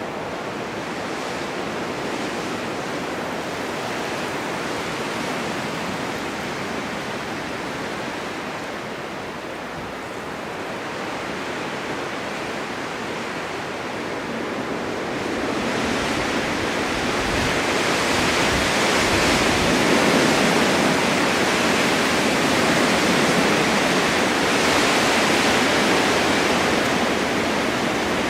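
Blizzard wind blowing snow about: a steady rushing noise that grows louder and hissier a little past halfway.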